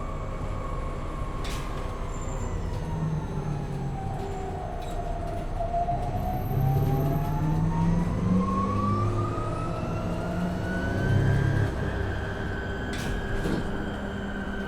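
Interior sound of a MAN Lion's City Hybrid city bus under way: a low engine hum with the electric drive's whine, which falls in pitch for the first five seconds or so as the bus slows, then rises steadily as it picks up speed again. A few light clicks and rattles come through.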